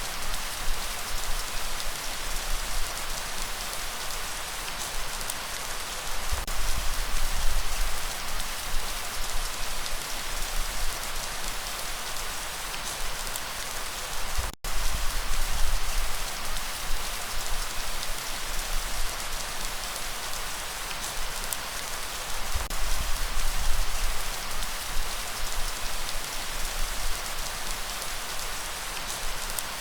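Steady rain falling in an even hiss of drops, with a low rumble underneath. About halfway through, the sound drops out completely for a split second, then resumes.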